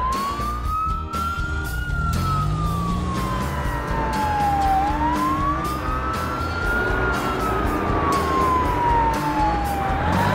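Police car siren in a slow wail, rising and falling twice and starting a third rise near the end, over background music.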